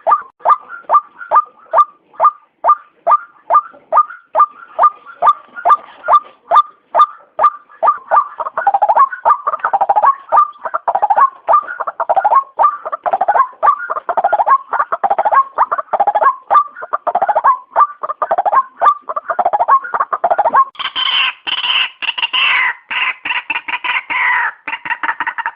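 White-breasted waterhen calling, a sharp repeated note nearly three times a second. After about eight seconds the calls thicken into an overlapping chorus, and near the end they turn harsher and louder.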